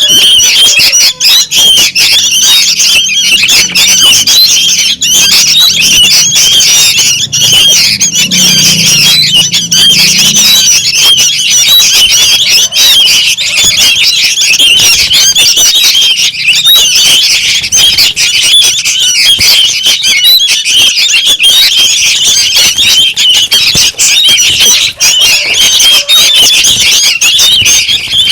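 Sooty-headed bulbul (kutilang) chicks calling noisily without a break, a dense, loud chorus of shrill squawking chirps used as a lure call to draw in bulbuls.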